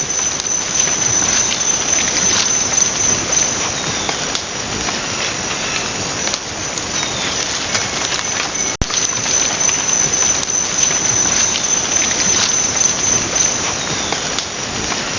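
Trail-camera microphone recording of rainforest ambience: a loud, steady, dense hiss with a high insect whine held on top and scattered small ticks. It breaks off for an instant about nine seconds in and starts over.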